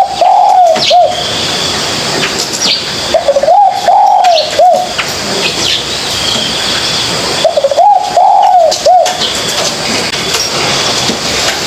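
Spotted dove cooing: three repeated coo phrases, each about a second and a half long and about four seconds apart. Small birds chirp faintly higher up.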